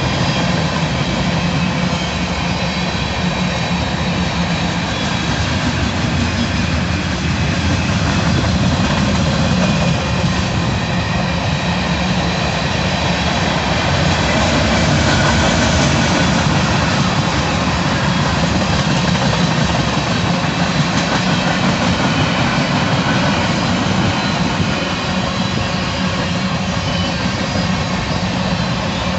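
Manifest freight train rolling past: a loud, steady rumble of wheels on the rails that holds without a break.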